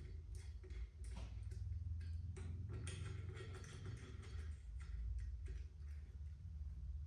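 Irregular light clicks and taps of hand tools working on a motorcycle wheel's metal parts, over a low steady hum.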